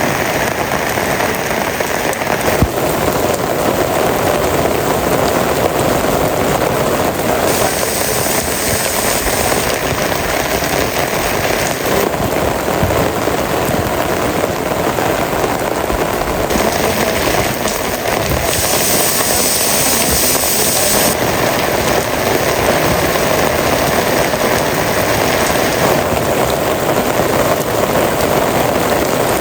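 Heavy rain falling steadily, a dense even hiss of drops with a few sharper ticks. Its tone shifts every few seconds.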